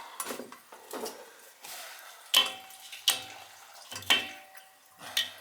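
Metal hand tools, a wrench and a length of steel pipe, clanking against metal pipework: a series of sharp clanks, the loudest near the middle, several ringing briefly.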